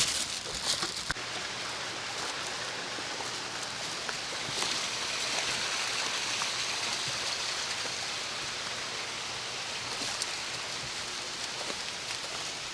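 Steady rush of a flowing stream, swelling a little for several seconds in the middle.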